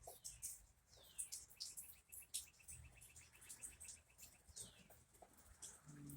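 Near silence with faint bird chirps: short high chirps, a quick trill, and a few falling whistles. A brief low hum comes in near the end.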